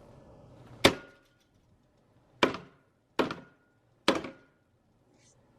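Four sharp knocks, something hard being struck by hand. The first comes about a second in, and the rest follow less than a second apart, each ringing briefly.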